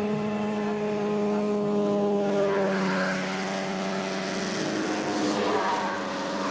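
Snowmobile engine running with a steady drone, its pitch dropping slightly about two seconds in and then fading.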